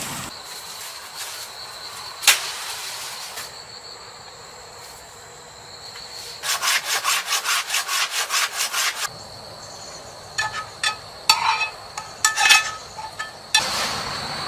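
A run of quick, even scraping strokes, about five a second for a couple of seconds, followed by scattered clicks and knocks, over a steady high-pitched insect drone.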